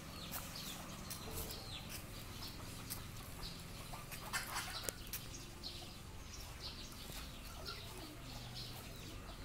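Birds chirping in the background: many short, falling chirps throughout, with a few sharp clicks about four and a half seconds in.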